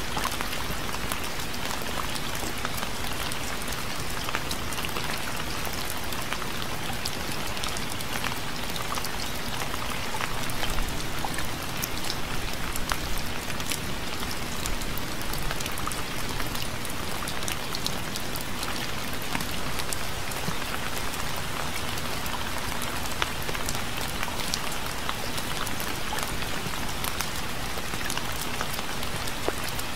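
Steady, gentle rain falling, with many separate drops heard among the even hiss; it swells a little about eleven seconds in.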